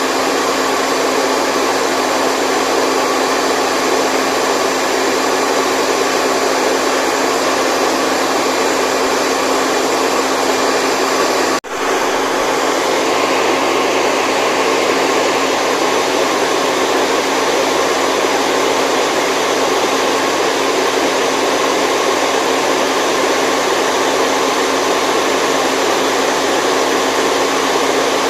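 Steady, loud rushing white noise that cuts out for an instant near the middle and then carries on unchanged.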